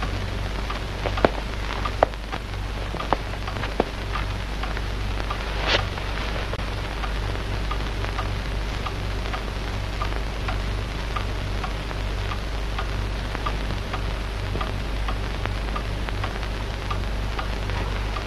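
Steady rain falling, with a few sharp knocks or drips in the first four seconds and a brief swell about six seconds in.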